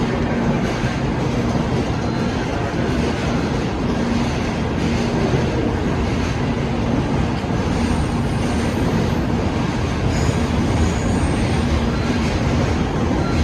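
N700A Shinkansen train pulling out of the station, a steady noise of its cars rolling past with an on-and-off low hum. About two-thirds of the way through, faint high whines come in.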